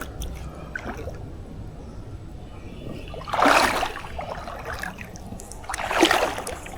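Water splashing and sloshing beside a canoe, in two bursts about two and a half seconds apart.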